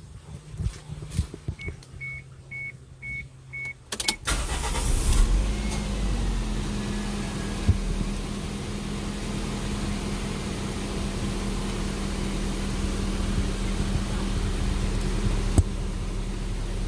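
A car's electronic chime gives a short run of evenly spaced high beeps, with a few clicks around it. About four seconds in, the car's engine starts and then runs steadily with a low hum and an even rushing noise for the rest of the time.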